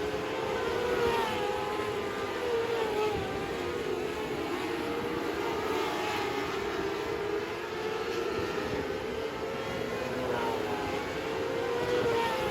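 Alcohol-fuelled dirt-track race car engine running at high revs. Its pitch keeps rising and falling as the throttle is lifted and reapplied around the track.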